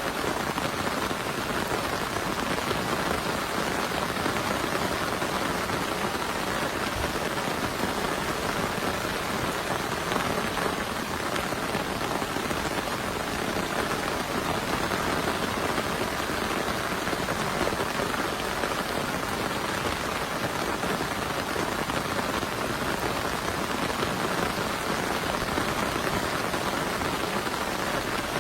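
Heavy, steady rain.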